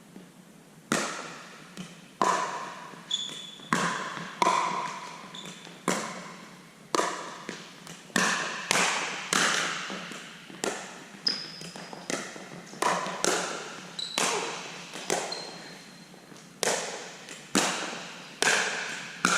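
Pickleball rally: hard paddles strike the plastic ball and it bounces on the court, a steady string of sharp pops about one to two a second, each with a short ringing echo.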